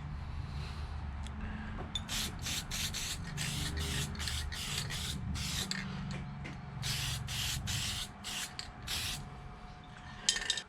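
Aerosol spray can of satin black paint sprayed in a series of short hissing bursts for several seconds, coating the pins, over a steady low hum.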